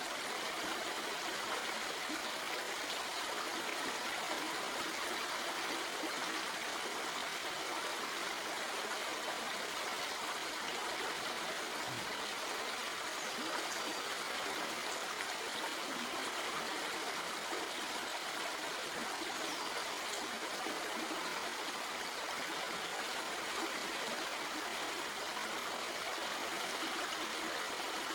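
Stream water flowing and trickling over rocks, a steady even rush.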